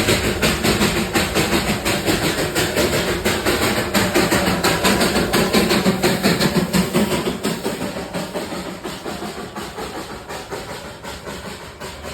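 Darjeeling toy train steam locomotive working hard, its exhaust chuffing in a fast, even beat of about four a second with steam hiss. It grows fainter from about halfway through.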